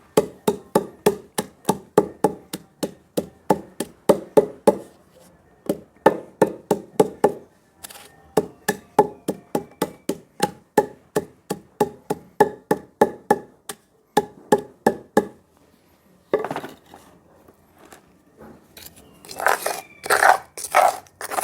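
Lumps of bonfire charcoal being pounded and crushed with a piece of wood. Sharp knocks come about three a second in runs with short pauses, and a few louder strikes fall near the end.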